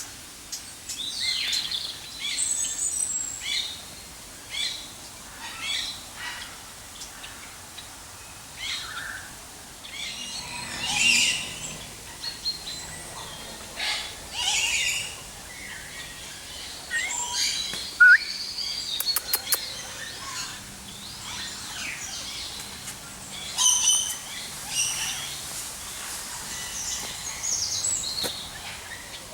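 Mixed birds chirping and calling in an aviary: many short high-pitched calls, overlapping and irregular, with a sharp click about two-thirds of the way through.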